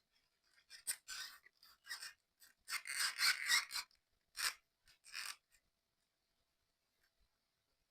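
Model kit parts being handled and fitted: a run of short scraping and rubbing sounds, the longest in the middle, with a final pair near the halfway point.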